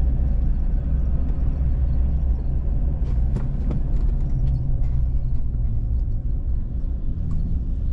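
Steady low rumble of a vehicle on the move, engine and road noise together, with a few faint ticks about three seconds in.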